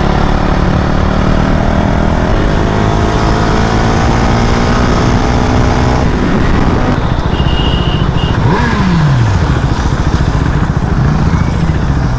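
Motorcycle engine running at road speed, its pitch climbing slowly under acceleration for about six seconds and then breaking off at a gear change. A short falling whine follows around the middle. Heavy wind and road noise from riding.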